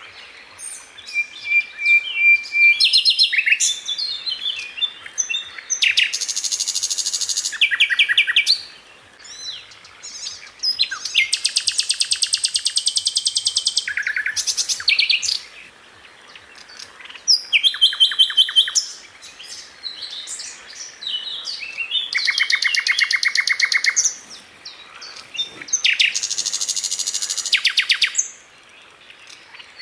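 Sikatan Londo flycatcher singing in fast, tight rattling trills and bursts of rapid notes, phrase after phrase with short pauses between. A brief steady whistle comes about a second in.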